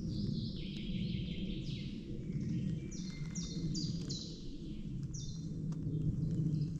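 A songbird singing: short high notes, each sliding down in pitch, repeated over and over, above a steady low rumble of noise.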